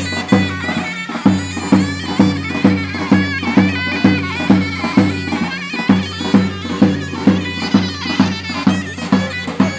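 Turkish folk music on davul and zurna: a shrill double-reed melody over a big bass drum beating about twice a second.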